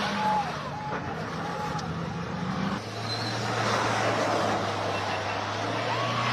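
Car engine running steadily, with people's voices over it.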